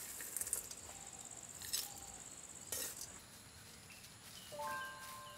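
Roasted jackfruit seeds rattling and clicking in a woven basket a couple of times, then a brief ringing near the end as they are tipped into a pot. A steady high insect drone runs underneath.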